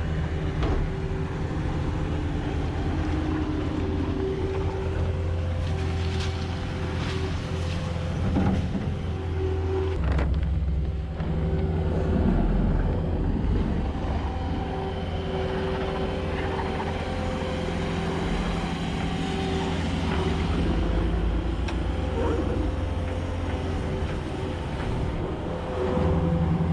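Skid loader's diesel engine running and working, its pitch and level shifting as it moves and loads.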